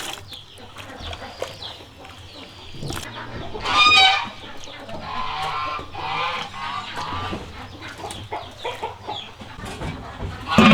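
Chickens clucking, with a louder call about four seconds in.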